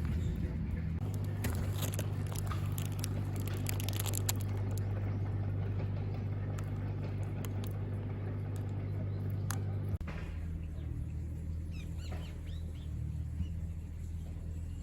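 A steady low motor hum with light clicks and knocks over it. The hum changes abruptly about a second in and again about ten seconds in.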